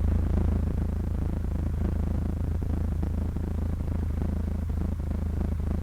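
Cessna 152's four-cylinder Lycoming engine and propeller droning steadily at a constant pitch.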